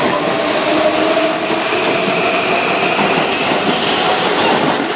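Keihan 7200 series electric commuter train running along a platform: a steady high whine over the rumble and clack of its wheels on the rails.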